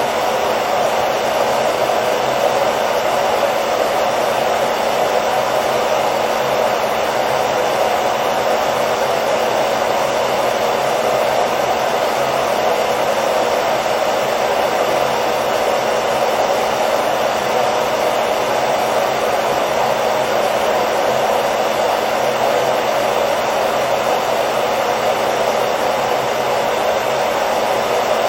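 Hairdryer running continuously at a steady setting: an even blowing whoosh with a faint motor hum, no change in pitch or level.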